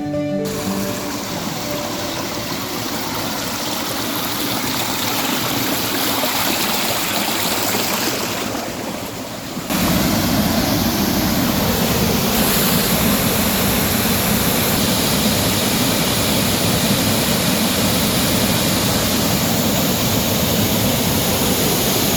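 Rushing river water, steady. About ten seconds in it switches abruptly to a louder, deeper, steady rush of a waterfall.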